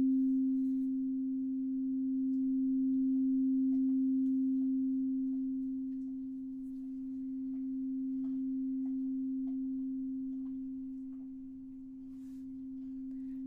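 A single steady mid-pitched pure tone, held throughout and slowly swelling and fading every few seconds: a sustained sound-healing drone.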